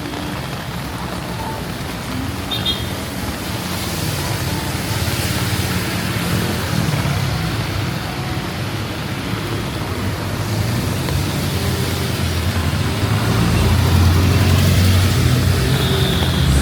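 Steady rain hiss mixed with road traffic on wet streets, a vehicle's low engine rumble growing louder over the last few seconds.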